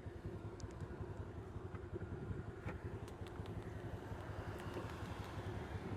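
Honda Navi's small single-cylinder engine idling steadily while the bike waits in traffic, with a few faint ticks.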